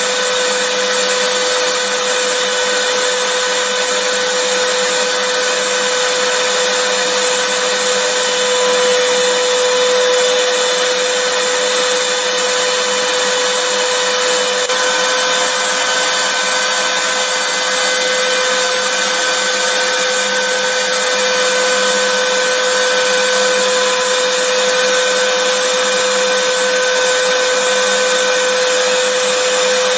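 Vacuum cleaner running steadily: an even whooshing hiss with a constant whine.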